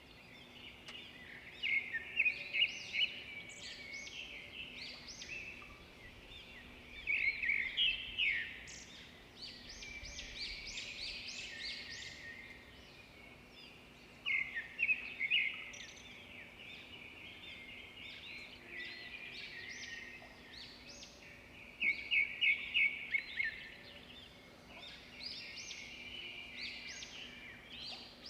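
Small birds chirping, several at once, with louder bursts of rapid chirps every several seconds and quieter chirping between.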